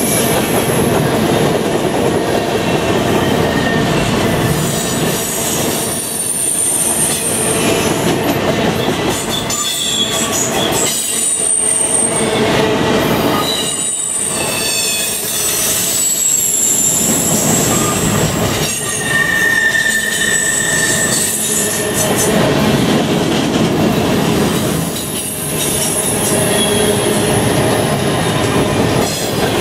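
Train of empty covered grain hopper cars rolling past close by: steady rolling noise of steel wheels on rail with some clickety-clack, overlaid by high-pitched wheel squeals that come and go. A lower squeal rings for a couple of seconds about two-thirds of the way through.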